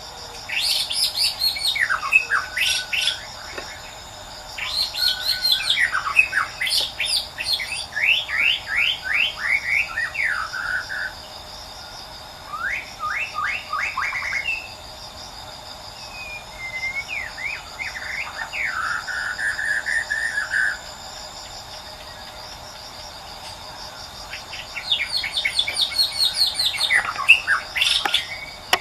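White-rumped shama singing in phrases of rapid repeated notes and sweeping whistles, five or so bursts with short pauses between. A steady buzz of insects runs underneath.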